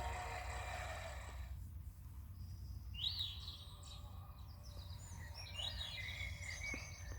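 Recorded morning birdsong, a few scattered chirps and short trills, played faintly from the small built-in speaker of a children's sound book, over a steady soft hiss.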